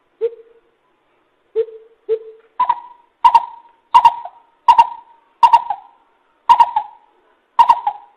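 Greater coucal decoy call: a series of hollow hoots. Three lower notes come first, then eight higher notes at about one every 0.7 seconds, each starting sharply and fading.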